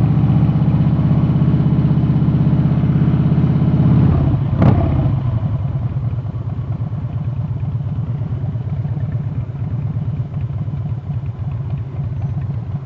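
Harley-Davidson V-twin motorcycle engine running as the bike rolls slowly. About four and a half seconds in there is one sharp clunk, and after it the engine settles into a quieter, lumpy, pulsing beat at low speed.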